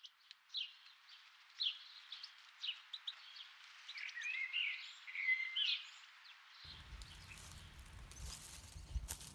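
Small songbirds chirping: short single chirps about once a second, then a quick run of twittering about four to six seconds in. About seven seconds in, a steady low background noise comes in, with a single thump near the end.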